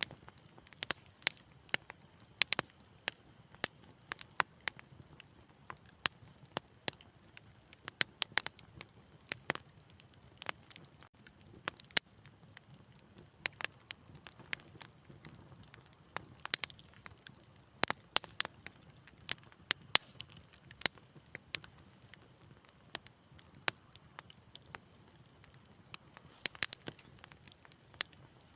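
Wood fire in a fireplace crackling, with many sharp, irregular pops and snaps over a faint low rumble of flame.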